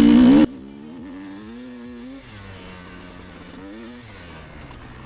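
Enduro motorcycle engine revving loudly, its pitch rising, then cut off abruptly about half a second in. After that a much fainter engine keeps rising and falling in pitch.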